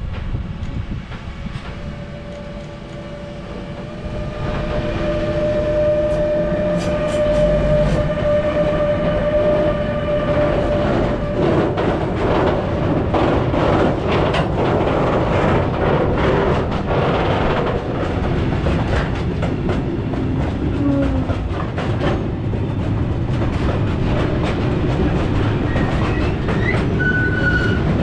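Freight train passing: a continuous rumble of wagons with clattering over the rail joints. It gets louder about four seconds in and stays loud.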